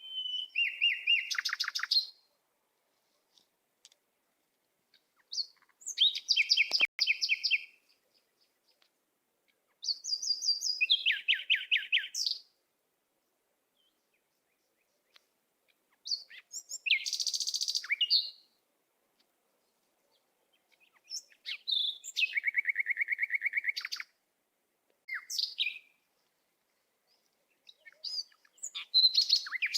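A songbird singing in phrases of rapid trills and chirps, each about two seconds long and coming every four to six seconds.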